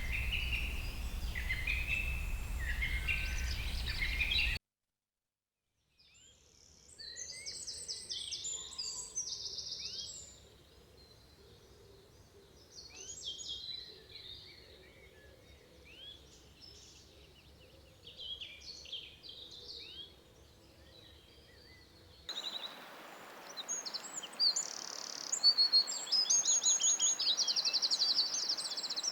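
Wild songbirds singing and chirping in forest, in several cut-together stretches: high varied phrases over a low hum, a second or so of dead silence about four seconds in, then quieter scattered chirps, and near the end louder, fast trills.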